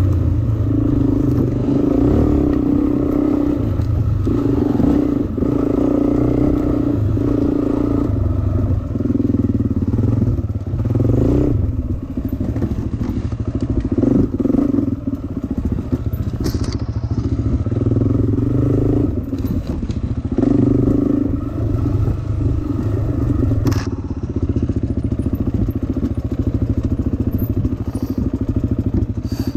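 Dirt bike engine being ridden, revving up and dropping back every second or two as the throttle opens and closes. A few sharp knocks and rattles from the bike over rough ground.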